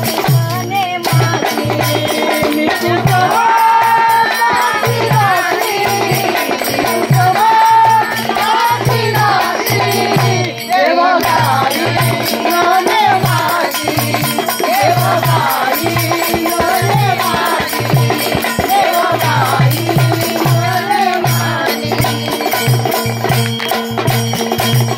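A woman singing a Marathi Gondhali devotional folk song over the steady drone of an ektari (one-string lute), with a drum beating an even rhythm beneath.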